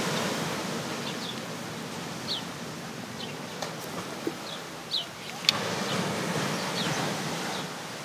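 Steady outdoor wind hiss, with short high chirps from small birds every second or so and a sharp click about five and a half seconds in.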